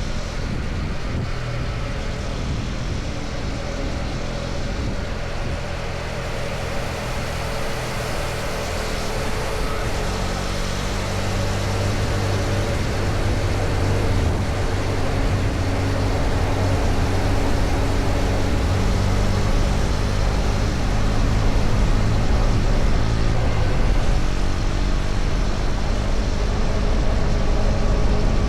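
KTM Duke 250's single-cylinder engine running steadily at road speed, with wind and road noise over it. The engine note strengthens about ten seconds in and the whole sound slowly grows louder.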